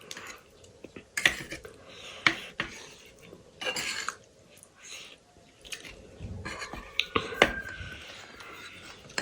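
Cutlery clinking against a dish several times while someone eats, with chewing sounds between the clinks.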